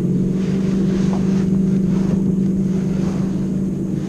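A motorboat's engine running steadily nearby, a continuous low drone that holds the same pitch.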